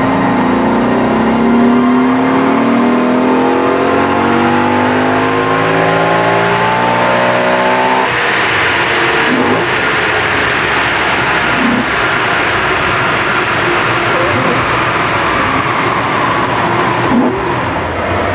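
Audi RS4's V8 engine at full throttle on a chassis dyno, its pitch rising steadily for about eight seconds as it pulls up through the revs. It then breaks off suddenly into a loud, steady rushing noise without a clear engine note.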